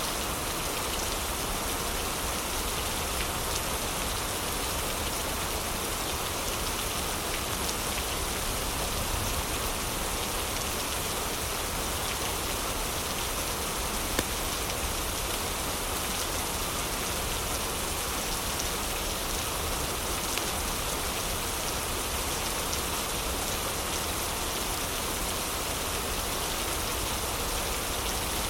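Heavy rain falling steadily, an even, unbroken hiss of drops with one sharp click about halfway through.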